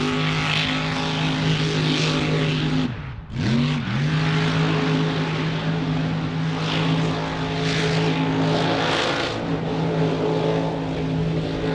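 A mud truck's engine revved hard and held at a steady high pitch, with a rushing noise over it. It eases off briefly about three seconds in, then revs back up and holds.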